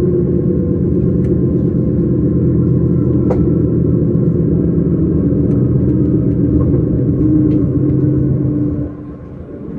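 S-Bahn electric commuter train running, a steady low rumble with faint steady tones above it; the level drops sharply about nine seconds in.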